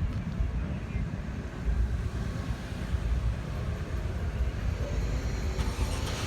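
Steady low rumble of a car moving slowly, engine and road noise with no distinct events.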